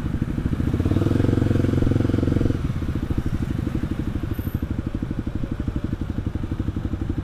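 Kawasaki KLX 250's single-cylinder four-stroke engine running under way, a steady rapid pulsing, louder for about a second and a half shortly after the start.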